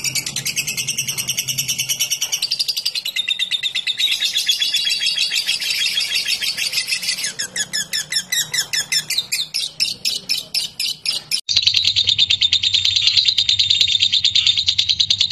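A lovebird giving its rapid, ticking chatter (the 'ngetik' call): a long unbroken run of quick, high, clicking chirps. It breaks off briefly about eleven seconds in, then resumes.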